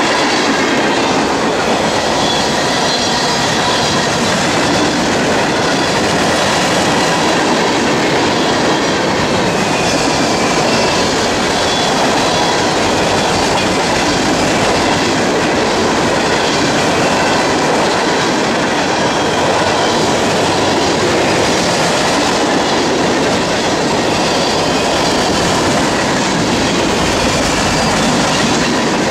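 Freight cars (covered hoppers, tank cars and boxcars) rolling past on steel wheels over the rails: a steady, loud rolling rumble, with faint steady high tones over it.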